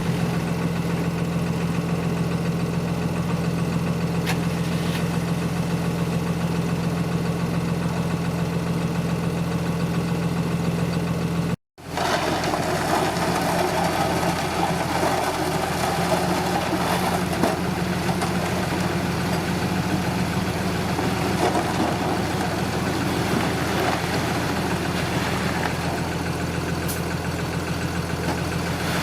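Heavy earthmoving machine's diesel engine running steadily at a low, even pitch. The sound cuts out for an instant about twelve seconds in, then returns with a rougher, noisier layer above the engine note.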